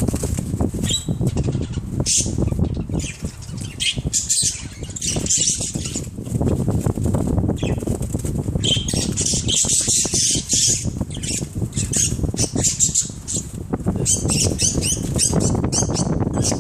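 Small birds fighting: rapid, continuous wing flapping and scuffling, with several bursts of high-pitched squawking and chirping.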